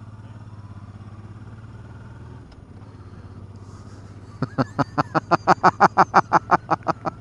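Motorcycle engine running steadily at low speed. About four seconds in, a fast run of loud, sharp pulses starts, roughly seven a second, lasting about two and a half seconds.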